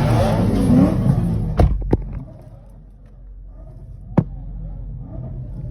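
Car engines revving amid crowd noise for about two seconds, then a sudden drop to quieter background with a few sharp clicks, one louder click about four seconds in.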